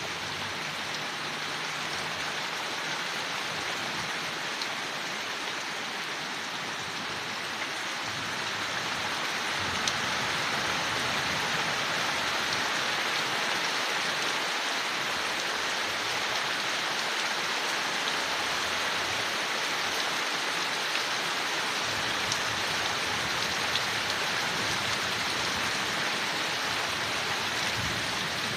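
Steady rain falling on leaves, with faint scattered drop ticks. It grows a little heavier about eight to ten seconds in.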